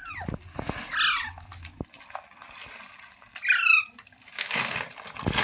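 Indian ringneck parakeet giving two short calls that sweep down in pitch, about a second in and again past three seconds, followed near the end by a short noisy rustle.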